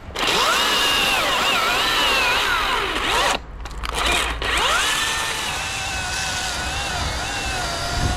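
Chainsaw cutting through a limb, its motor pitch sagging under load and picking back up again several times. It stops briefly about three and a half seconds in, then resumes and runs more steadily.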